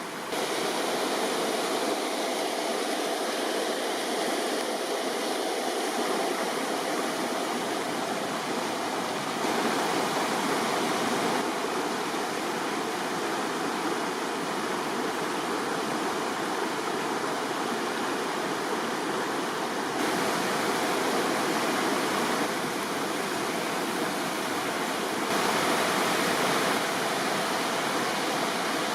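River water rushing steadily, a continuous noisy flow with a few small jumps in level.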